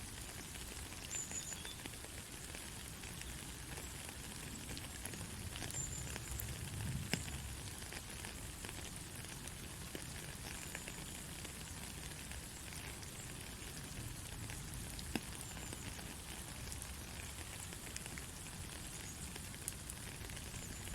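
Soft, steady rain falling, an even hiss with scattered individual drops ticking.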